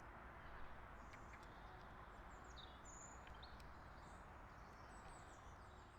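Faint outdoor ambience with a steady background hiss and several small birds chirping, giving short high downward-sweeping notes.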